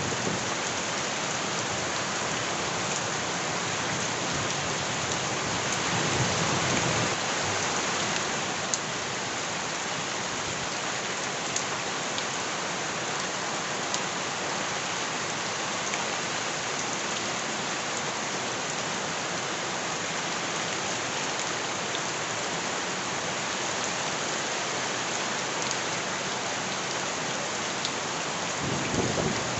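Steady rain falling, with scattered sharper drips. A deeper swell rises about six seconds in and again near the end.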